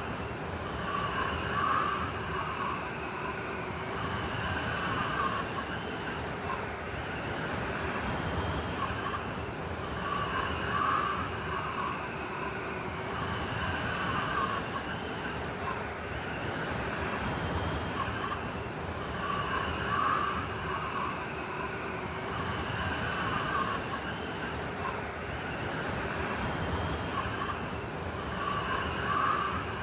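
Blizzard wind blowing steadily, with a wailing, whistling swell that comes back about every nine or ten seconds.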